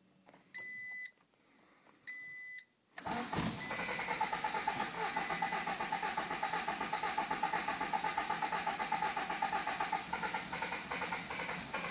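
Two short electronic beeps, then a starter cranking a Honda B18B 1.8-litre four-cylinder engine in a steady rhythm without it catching. This is a cold no-start, which the owner thinks is a failing distributor and its cylinder position sensor.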